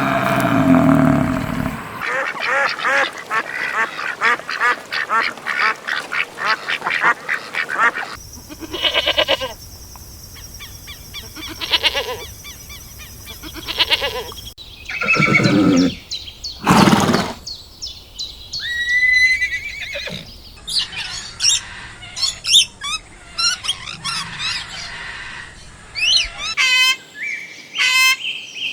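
A string of short clips of bird calls cut one after another: fast runs of repeated calls first, then a few separate longer calls, then high chirping calls near the end.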